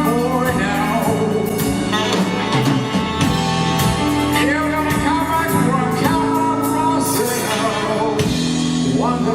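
Live band playing a pop-soul number: steady drum beat under sustained chords, with a bending lead melody on top.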